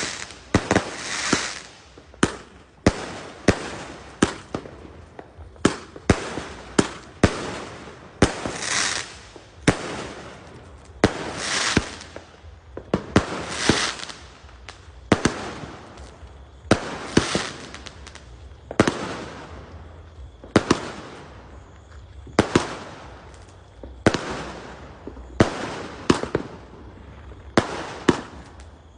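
New Year fireworks going off one after another: sharp bangs, about one or two a second, many followed by a crackling hiss that trails away.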